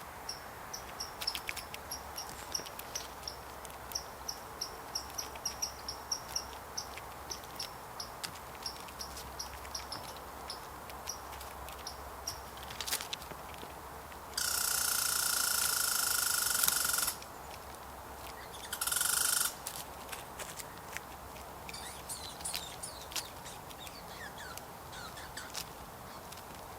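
Outdoor yard ambience in the fall: a steady run of short high insect chirps, about two to three a second, through the first half, typical of crickets. Past the middle come two loud, harsh, rasping calls, a long one and then a shorter one, followed by a few short falling bird chirps.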